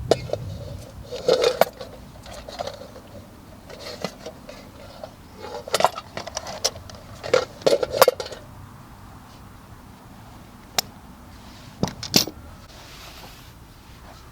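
Cookware and utensils being handled: irregular clinks and knocks in small clusters, with a few sharp single clicks near the end.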